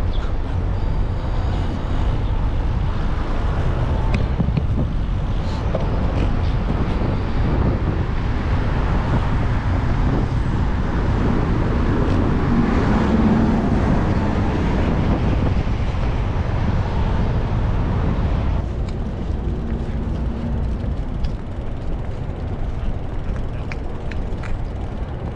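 Steady city street traffic noise, a little louder about halfway through and quieter over the last several seconds.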